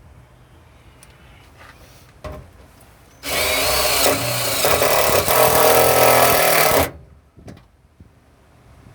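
Power drill running in one continuous run of about three and a half seconds, starting about three seconds in, driving a self-tapping screw into sheet metal. There is a short knock just before it.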